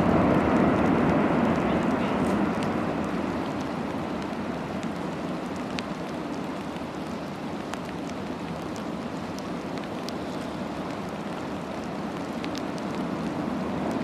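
Steady rushing noise of wind and water, louder at first and easing off over the first six seconds, with a few faint clicks.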